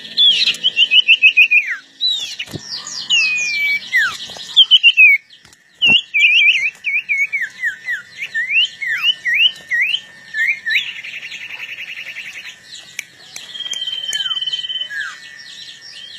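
Sirtu songbirds singing hard in loud whistled phrases: quick runs of falling slurs and upward sweeps, rapid trills, and a held high note late on. This is competitive song from birds set against each other.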